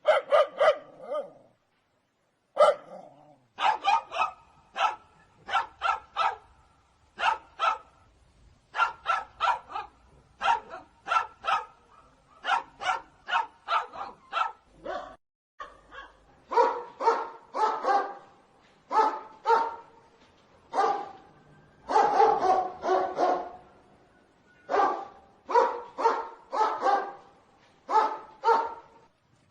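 Dog barking repeatedly in quick runs of two to five barks with short pauses between.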